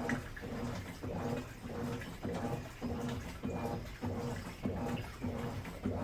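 Midea Wave-Agitator top-loading washing machine agitating a load in water. The motor hums and reverses in a steady rhythm of about two strokes a second, with water sloshing around the clothes.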